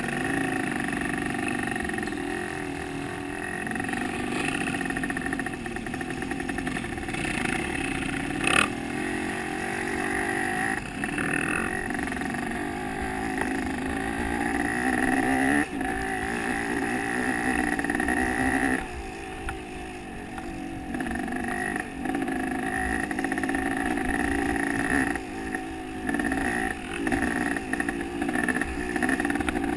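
Motocross motorcycle engine running continuously, its revs rising and falling, with one sharp knock about eight and a half seconds in.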